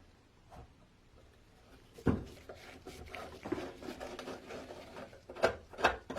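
Hard objects being handled and set down: a knock about two seconds in, then irregular clattering and rubbing, and a few sharp taps near the end.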